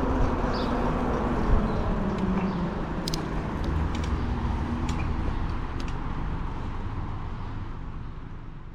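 Steady road and wind noise with a faint low hum and a few light ticks a few seconds in, fading out at the end.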